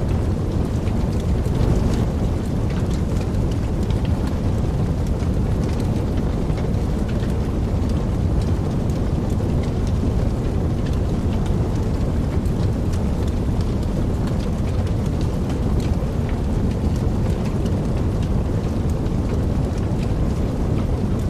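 Wood fire burning in a fireplace: a steady low rush of flames with many small, quick crackles and pops throughout.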